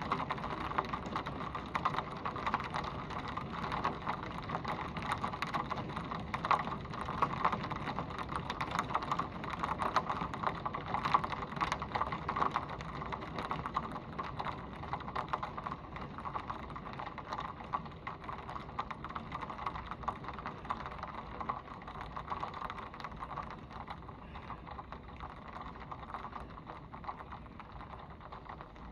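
Heavy wind-driven rain from a severe thunderstorm pouring down, with a dense run of close drop strikes like rapid ticking over the steady wash; it eases a little in the second half.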